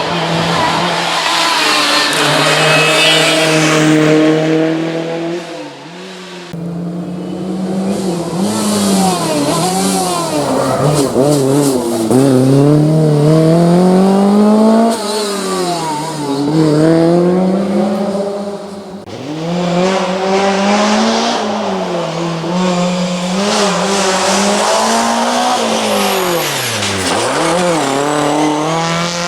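Historic rally cars' engines driven hard on a special stage, the pitch climbing under acceleration and dropping back at each gear change and braking point. There are several passes, joined by abrupt cuts.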